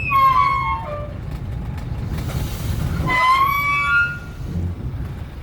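Tourist rail cart running along the track with a steady low rumble, with two spells of high whistling, horn-like tones, one at the start and one about three seconds in.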